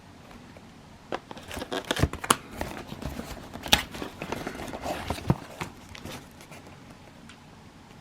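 Cardboard box and packaging of a fireworks selection box being opened and handled: crinkling, tearing and knocks, bunched between about one and six seconds in.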